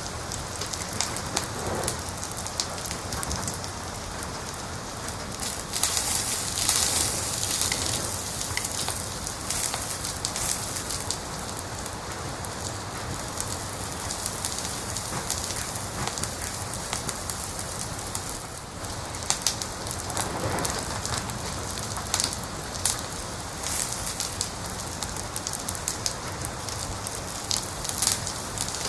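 Wood fire crackling steadily, a continuous hiss dotted with frequent sharp pops and snaps, with a busier flurry of crackles about six seconds in.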